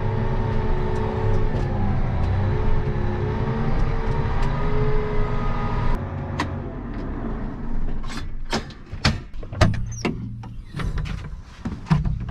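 Tractor engine running with a wavering whine over it for about six seconds. Then come a run of sharp metallic clanks and knocks as the drill is unhitched.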